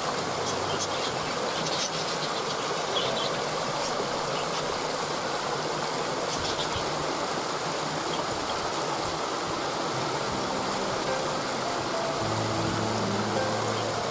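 Steady rushing of a waterfall, with a few brief high bird chirps in the first half.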